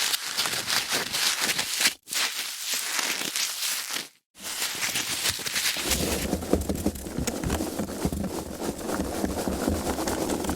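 Foam packaging being handled: a dense crackling, rubbing sound, broken by two brief silent gaps about two and four seconds in. The last part is fuller, with more low rumble.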